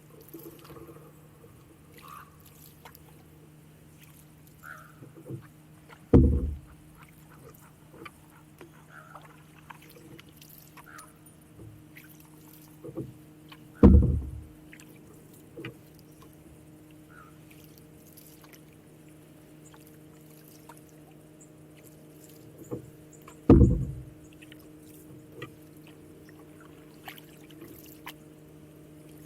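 Canoe on the water: small drips and trickles from the paddle with light knocks, and three loud, dull thumps about eight seconds apart over a faint steady low hum.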